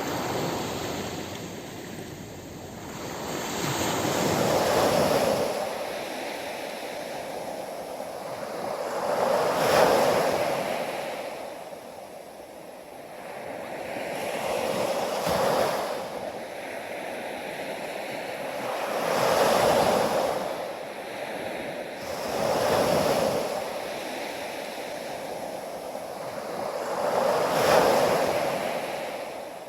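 Waves breaking and washing in, each one swelling up and falling away, about every four to five seconds.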